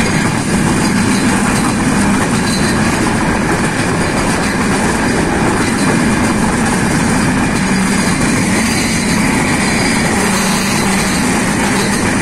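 Passenger train running at speed, heard from a window of the moving carriage: a steady rumble of wheels on the track.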